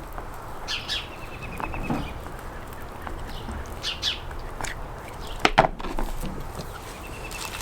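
Small birds calling: short high chirps, a few of them running into a quick trill. About five and a half seconds in there is a pair of sharp knocks, louder than the birds.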